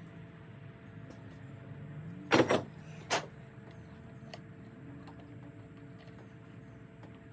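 A few sharp knocks of tools or parts being handled at the workbench: a loud double knock about two and a half seconds in, a smaller one just after, and a faint click later, over a steady low hum.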